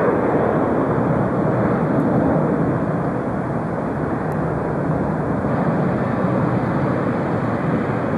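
Steady noise of jet airliner engines, dipping a little around the middle and swelling again near the end.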